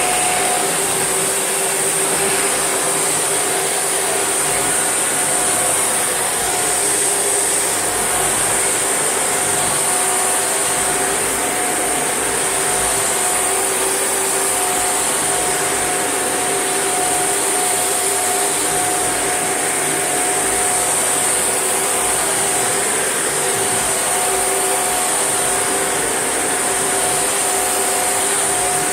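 Shark NV801UK upright vacuum cleaner running steadily: a constant motor whine with a strong high-pitched airflow hiss, unchanging throughout.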